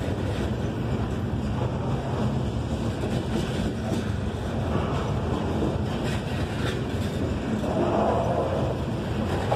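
Loaded open-top coal hopper cars of a freight train rolling past close by: a steady rumble of steel wheels on rail, with scattered clicks.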